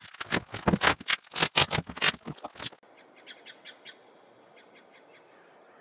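A quick run of loud, sharp rasps and clicks lasting a couple of seconds. It breaks off abruptly and gives way to a small bird chirping a fast string of short high notes over a faint steady hiss.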